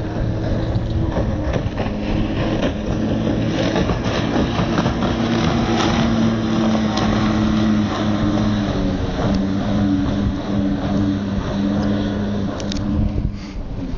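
Freshly rebuilt Evinrude outboard motor running steadily at speed on a racing boat, with hull and water rush and wind over it. The sound drops briefly about thirteen seconds in.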